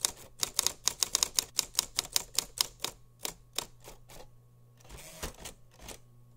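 A quick, uneven run of sharp clicks, about five a second, that thins out and slows after about three seconds, with only a few scattered clicks near the end.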